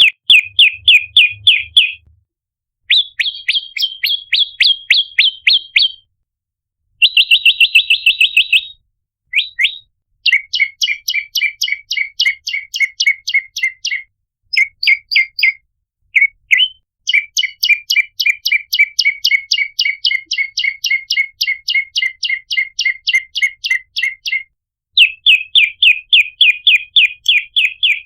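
Prenjak lumut calling: loud, fast runs of sharp, repeated chirps, several a second, each run lasting a few seconds with short breaks between, some runs higher-pitched than others.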